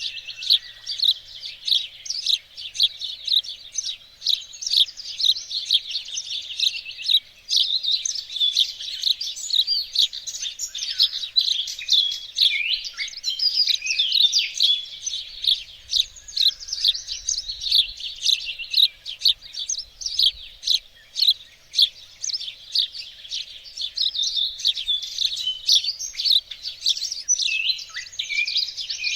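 Songbirds chirping and singing in a dense, unbroken stream of quick high notes.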